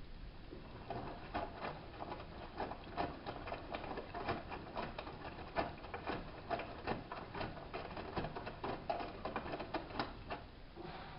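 Vestel-built hanseatic HWM814A3D front-loading washing machine mid-wash: the drum turns and the wet laundry tumbles, giving irregular clicks and slaps about three or four times a second.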